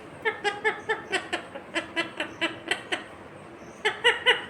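Indian ringneck parakeet giving a quick run of short, pitched repeated notes, about four or five a second, then after a brief pause three more near the end.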